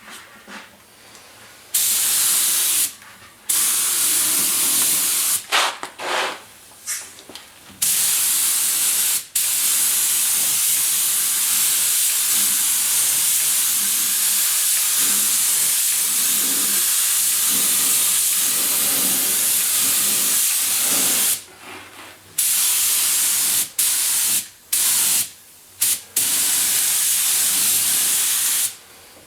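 Aerosol spray can of low-gloss clear coat hissing as it sprays in repeated passes: a short burst, one long spray of about thirteen seconds, then several short bursts near the end.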